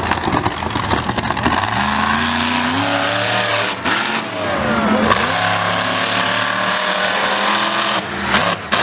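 A racing vehicle's engine under hard acceleration. Its pitch climbs, drops sharply about five seconds in, then climbs again.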